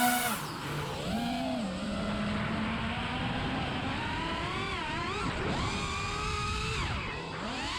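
FPV quadcopter's electric motors and propellers whining, the pitch sliding up and down again and again as the throttle changes.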